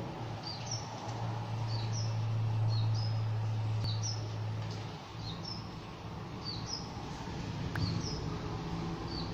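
A bird repeating a short two-note chirp, a lower note then a higher one, about once a second over a steady low hum. It all cuts off suddenly at the end.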